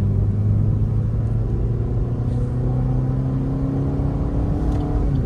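Suzuki Ertiga Smart Hybrid's 1.5-litre four-cylinder petrol engine accelerating, heard from inside the cabin. Its note climbs steadily in pitch, then falls away sharply near the end, with a steady low road rumble underneath.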